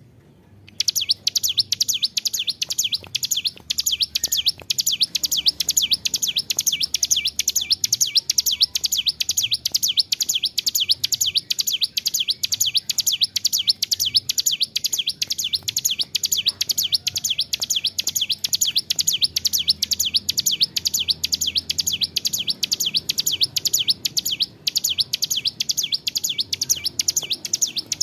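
Ciblek gunung, a mountain prinia, singing a long unbroken song of rapid, high, repeated chirping notes. The song starts about a second in after a moment of quiet.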